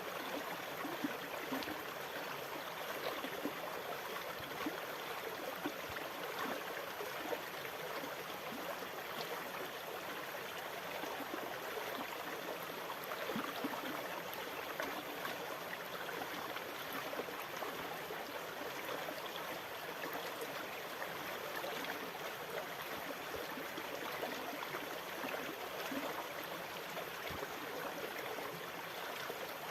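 Steady water ambience: water gurgling and trickling with many small splashes, at an even level with no rise and fall of waves.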